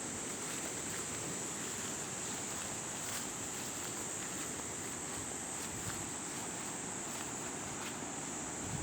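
Insects droning steadily in one high, unbroken pitch over a steady background noise.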